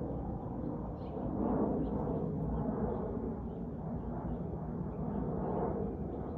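Jet airliner engines rumbling, a deep steady roar that swells and eases a little, with faint chirps above it.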